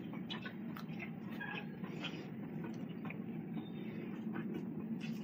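A person chewing a mouthful of food, with many small wet mouth clicks and smacks, over a steady low hum.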